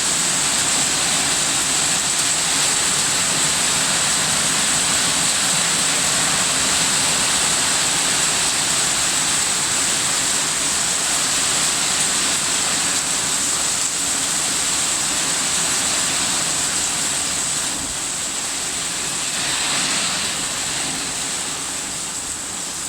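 Strong wind of an approaching storm blowing steadily, a constant rushing noise with a steady high hiss over it, easing slightly near the end.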